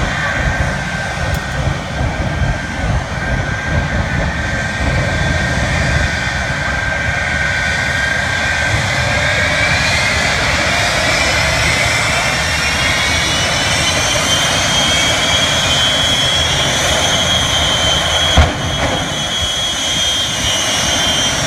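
The Shockwave jet truck's three Pratt & Whitney J34 jet engines running loudly, their whine climbing in pitch from about eight seconds in as they spool up, then holding high. A single sharp bang comes near the end.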